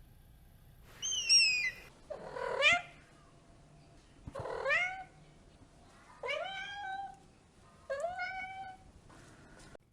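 A cat meowing: about five separate drawn-out calls, most of them rising in pitch, with short pauses between them.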